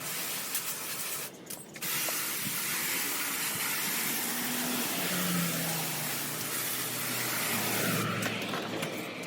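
Water spraying in a steady hissing jet from a hose or sprayer nozzle, cutting out briefly about a second and a half in.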